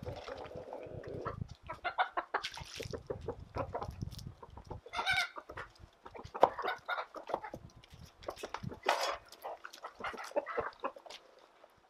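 Chickens clucking in a pen, many short calls one after another, with some low rustling in the first few seconds.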